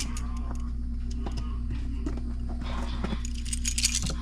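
Scattered small clicks and taps of hands and tools working wires onto a 20 amp Decora electrical receptacle, busiest near the end, over a steady low hum.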